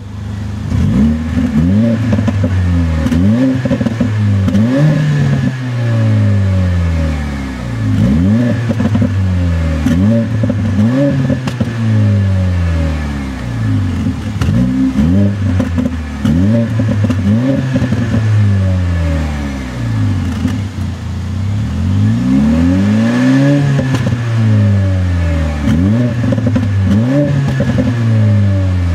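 2015 Mercedes-Benz GLA45 AMG's turbocharged 2.0-litre four-cylinder blipped repeatedly while standing, heard from behind at the quad exhaust tips. The revs rise sharply and fall back about once every second or two, with a few short pauses near idle.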